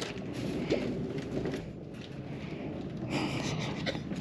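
Steady low wind rumble on the microphone, with a few faint brief noises over it.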